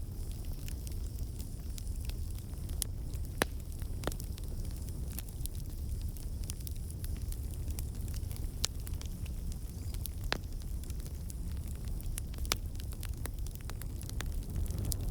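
Campfire burning: a steady low rumble of flames with sharp, irregular crackles and pops of the wood, a few of them louder.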